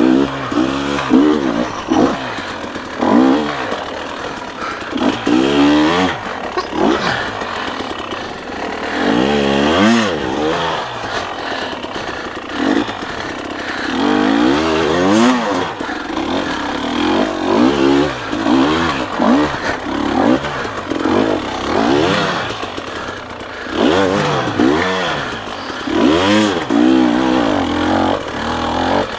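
Dirt bike engine revving up and down again and again, the pitch rising and falling every second or two as the throttle is opened and closed on a tight trail.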